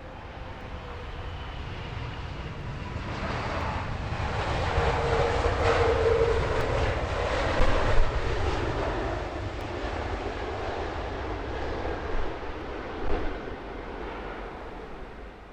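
Jet airliner passing close by: its engine noise and whine build to a peak about halfway through, then fade away, with a few short knocks near the loudest point.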